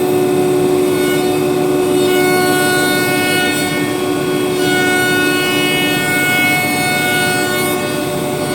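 ATC woodworking CNC router spindle running with a steady high whine over a noise hiss as it machines a wooden door. Higher overtones join about a second in and shift a little as the cut goes on.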